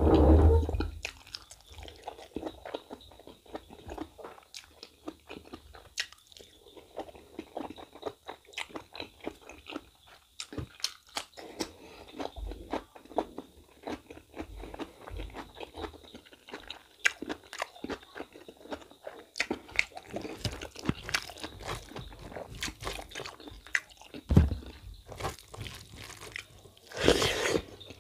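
A man chewing mutton innards curry and rice close to the microphone, a steady run of small mouth clicks, with a few louder bursts at the start and near the end.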